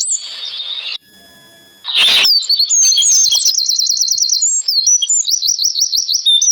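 Songbirds chirping loudly in quick, repeated high notes, many per second, broken by a short pause about a second in.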